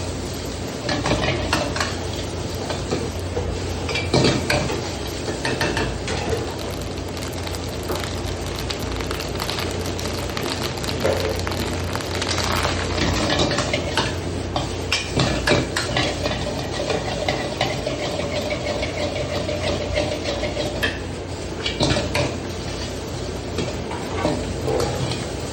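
A spatula stirring and scraping fried rice around a hot pan, with irregular clinks and scrapes of metal on metal and some sizzling, over a steady low hum.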